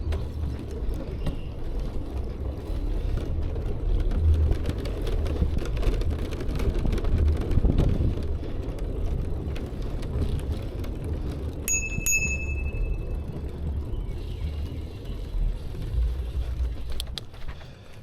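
Bicycle being ridden: a fluctuating low rumble of wind on the microphone and rolling noise. About twelve seconds in comes a single short bell-like ding.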